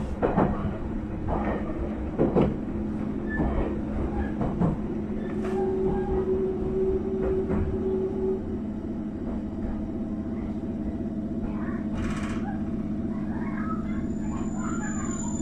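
JR East E657-series electric train rolling slowly past: wheels click over rail joints at first, then a steady hum, a short hiss about twelve seconds in, and a high squeal begins near the end as it brakes to a stop.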